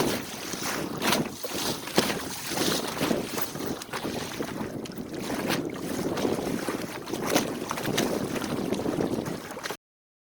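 Wind buffeting the microphone over water rushing and splashing along the hull of a small sailboat under sail, with irregular sharp slaps. The sound cuts off abruptly near the end.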